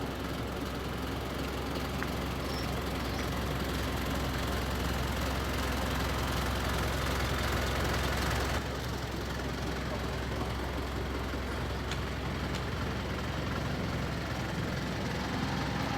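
Truck engine running steadily with a low hum and road or wind noise, heard from inside the cab. The sound changes abruptly about halfway through, the hiss dropping away.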